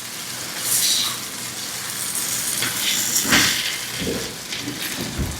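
Potatoes, tomato, onion and eggs sizzling in a frying pan, with a few louder scrapes as the mixture is stirred, the strongest about three seconds in.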